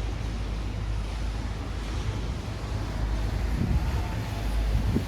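Outdoor street ambience with a steady low rumble. Faint voices come in during the second half.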